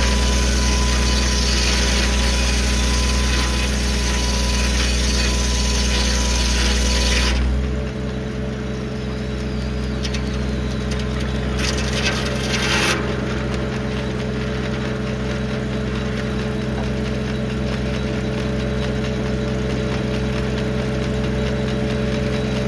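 1952 Farmall H's four-cylinder engine running steadily under load, belt-driving a Corley circular sawmill, with the loud hiss of the blade cutting through a log over it. The cutting noise stops abruptly about seven seconds in, leaving the tractor and mill running on, with one brief hiss again around twelve seconds.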